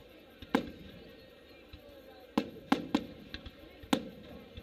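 Aerial firework shells bursting overhead: a series of sharp bangs, one about half a second in, a quick run of three around the middle, and another near the end.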